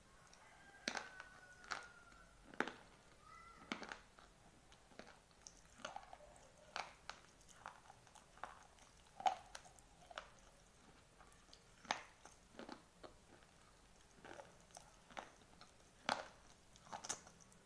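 Dry white slate pencils crunching and being chewed in the mouth, close up. Sharp, irregular crunches come a few every couple of seconds, between softer chewing.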